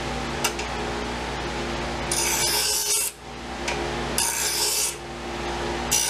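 Steel knife blade ground against an abrasive in three strokes of about a second each, over a steady motor hum, working nicks out of the blade. A sharp click about half a second in.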